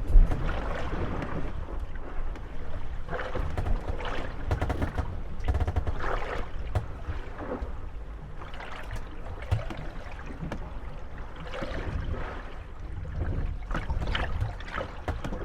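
Moored gondolas rocking on small waves: water lapping and sloshing against the wooden hulls, with creaks and knocks as the boats rub and bump against each other, coming in swells every second or two.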